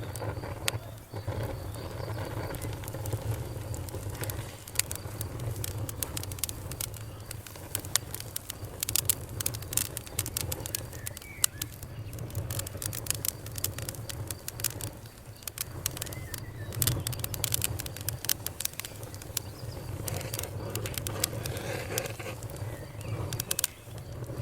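Wood fire crackling, with many sharp pops and snaps, in thicker flurries a third of the way in and again later, over a steady low rumble.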